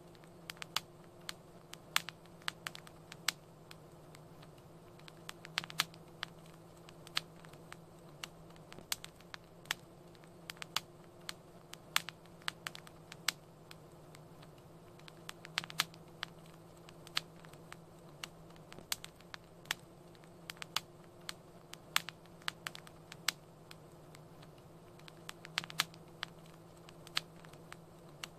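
Wood fire crackling: irregular sharp pops and snaps, several a second at times, over a low steady hum.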